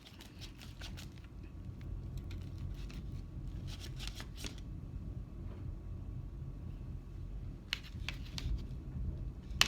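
A low, steady rumble lasting several seconds, which the listener in the room takes for thunder, with a few sharp clicks of eating over it.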